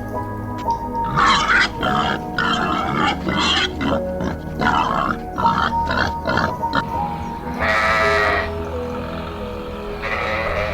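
Background music with a series of short animal calls, about eight in quick succession, followed by two longer pitched calls near the end.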